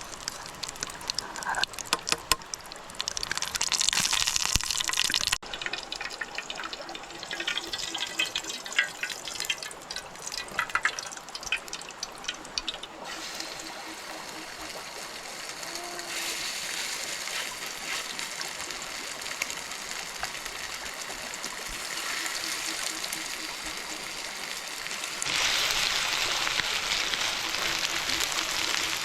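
Running water, a steady rushing sound, with scattered clicks and knocks over roughly the first half. The sound changes abruptly a few times and grows louder near the end.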